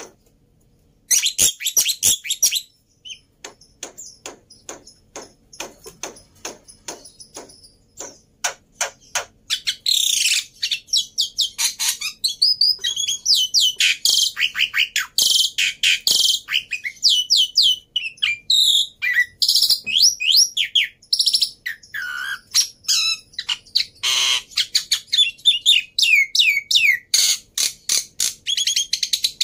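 Black-winged myna (jalak putih) singing busily: long runs of rapid, repeated chattering notes mixed with sweeping whistled calls, after a brief pause in the first second.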